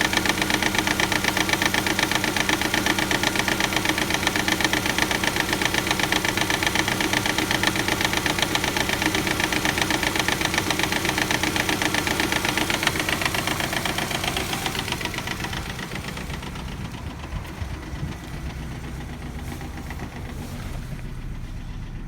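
Subaru EJ257 turbocharged flat-four idling cold with a rapid, loud clacking from the timing belt slapping, caused by a defective hydraulic timing belt tensioner that does not hold tension until the engine warms. The clacking and engine sound drop noticeably in level about fifteen seconds in.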